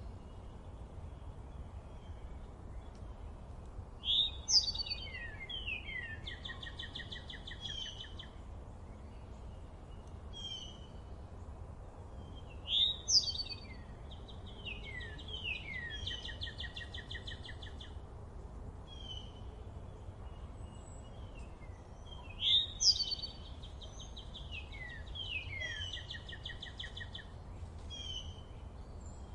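Songbirds singing in a forest: one bird repeats a loud song phrase of quick down-slurred notes and buzzy trills three times, about nine seconds apart, with quieter chirps from other birds in between. A steady low rumble runs underneath.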